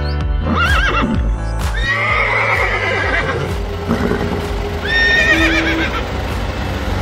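Horse whinnying three times, each call a wavering, falling neigh, over steady background music.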